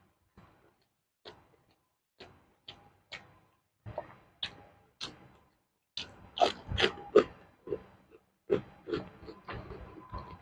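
Close-miked crunching and chewing of raw vegetables: crisp single bites at first, then faster, louder crunching from about halfway through.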